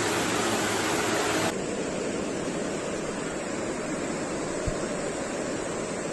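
Steady rushing noise of water. About a second and a half in it abruptly changes, the hiss dropping away and the sound turning duller. A single short low thump comes about three-quarters of the way through.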